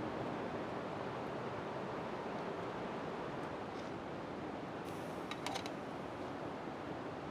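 Steady heavy rain, an even hiss, with a short cluster of sharp ticks about five seconds in.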